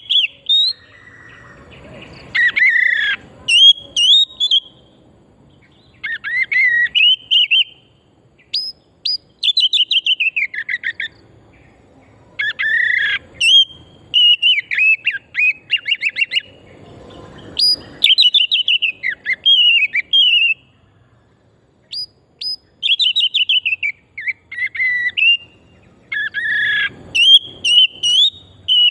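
Oriental magpie-robin singing: phrases of varied whistles, rapid trills and sweeping notes, each a second or three long, broken by short pauses.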